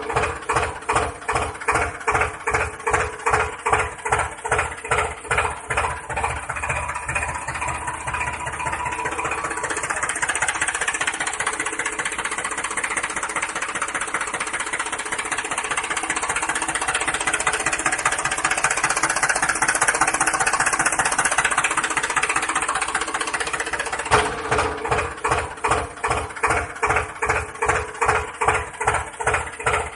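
Tractor engine running with a regular pulse. About ten seconds in the pulse smooths into a steadier, brighter run; it becomes a distinct pulse again with a sudden return about 24 seconds in.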